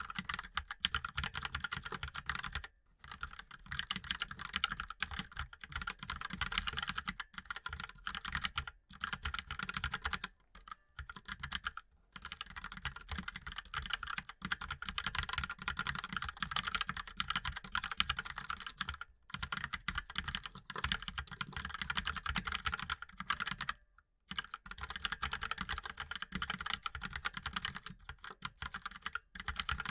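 Fast, continuous typing on a mechanical keyboard: dense runs of key clacks, broken by brief pauses a few times.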